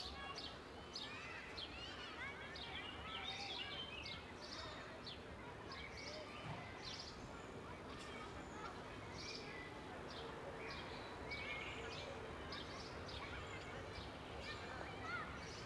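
Birds singing, a steady stream of short, quick high chirps, over a faint steady outdoor hiss.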